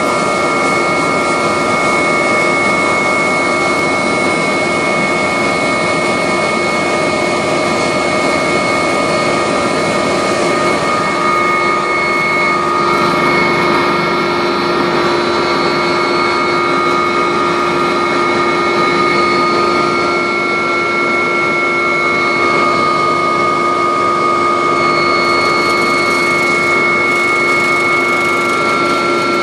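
Agusta helicopter running steadily: an even rush of rotor and engine noise with several high turbine whine tones held over it. A lower steady hum grows stronger about eleven seconds in.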